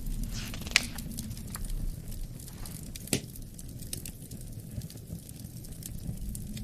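Wood fire crackling with scattered pops and clicks, two sharper pops standing out about a second in and about three seconds in, over a low, steady rumble of wind.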